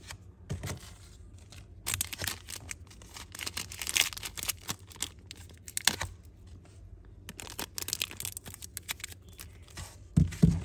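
Packaging being handled, crinkling and rustling, with irregular small clicks and two low knocks near the end.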